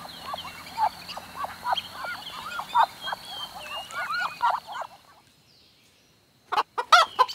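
Musk duck calling: a rapid run of short arching calls, two or three a second, over a thin steady high tone. The calls stop about five seconds in. After a short silence, chickens start clucking near the end.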